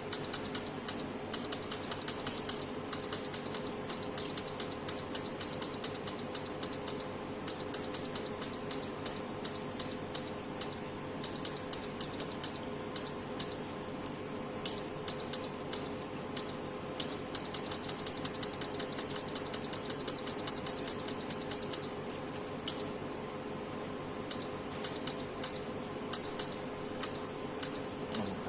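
Roche electrolyte analyzer beeping: many short, high electronic beeps, several a second, in runs broken by short gaps, over a steady hum.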